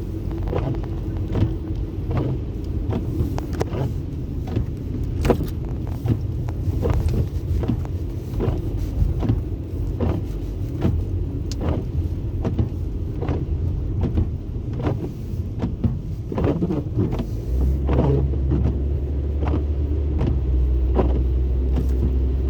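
A car driving, heard from inside the cabin: a steady low rumble with frequent short knocks and clicks, and a deeper steady drone joining near the end.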